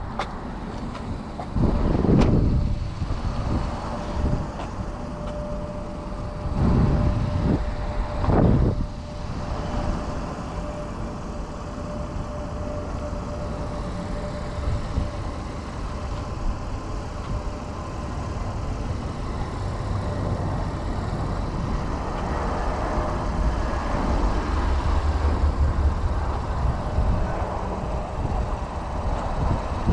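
A 2020 Honda Pilot's 3.5 L V6 idling, heard from outside the vehicle, with a faint steady whine over a low rumble. A door appears to shut about two seconds in, and the rumble grows heavier near the end.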